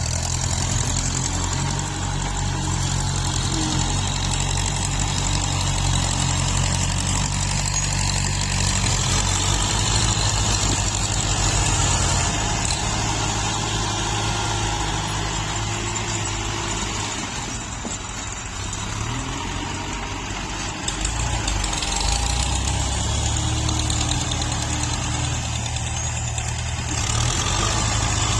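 Tractor diesel engine running under load while grading soil, its engine note shifting as the load changes, dipping slightly about two-thirds through before picking up again.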